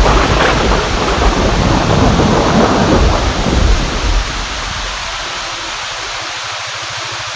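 Heavy rain pouring with a low thunder rumble through the first four seconds or so; the rumble then fades and steady rain carries on.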